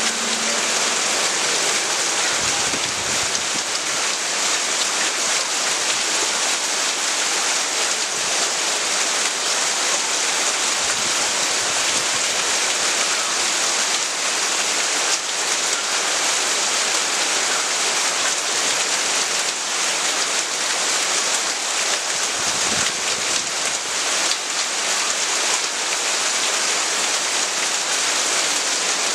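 Heavy rain falling steadily, a dense even hiss of drops on a surface, with a few brief low rumbles.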